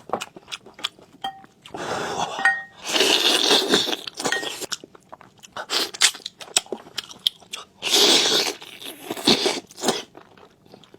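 Close-miked eating of a soft, braised deboned pig's trotter: wet chewing and smacking clicks, with a few louder noisy bursts about a second long, two to four seconds in and again near eight seconds.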